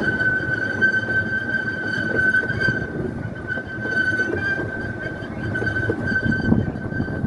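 Scenic railway train running along its track: an uneven rumble and clatter from the cars and wheels, with a steady high-pitched whine over it.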